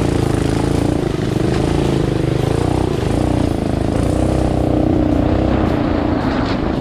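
Coleman CT200U mini bike's small single-cylinder four-stroke engine running under throttle, its pitch wavering up and down as the bike is ridden.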